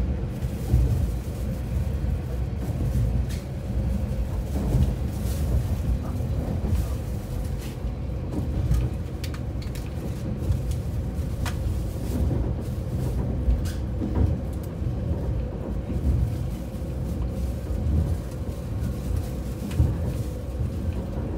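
Diesel sightseeing railcar running along the line: a steady low rumble with a faint steady hum, and scattered short clicks and rattles.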